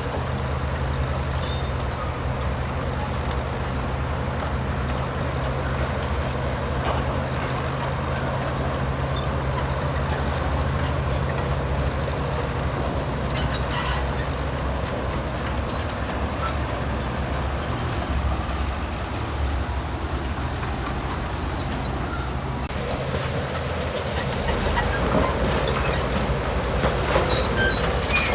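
Diesel engine of heavy construction machinery running steadily. Near the end it grows louder, with scattered small clinks and rattles.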